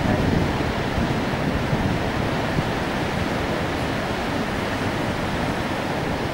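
Fast-flowing Indus River water rushing steadily, a dense even noise with no breaks.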